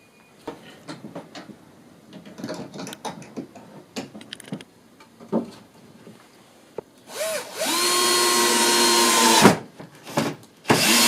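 Light knocks and handling noise, then a handheld electric power tool spins up and runs steadily for about two seconds before stopping. Two shorter bursts of the tool follow near the end.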